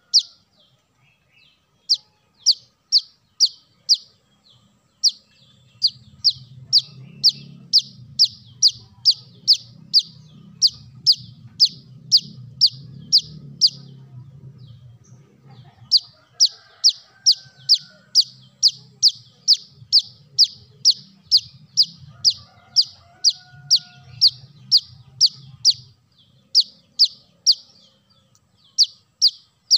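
Kolibri kelapa (brown-throated sunbird) calling: a run of short, sharp, high chip notes at about three a second, broken by brief pauses and then starting again. A faint low hum lies under the calls in the middle stretch.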